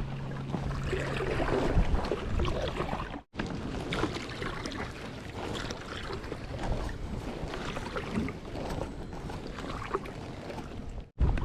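Water lapping and slapping against a fishing kayak's hull, with wind buffeting the microphone. The sound drops out for an instant twice, about three seconds in and near the end.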